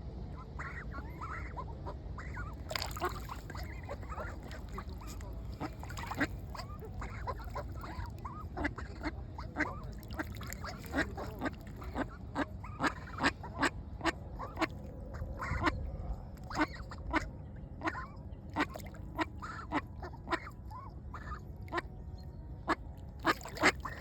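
Ducks quacking over and over in short, sharp calls, coming about once or twice a second and more often in the second half, over a low steady rumble.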